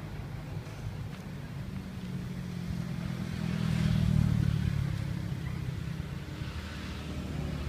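A motor vehicle engine running with a steady low hum. It grows louder toward the middle and then fades again.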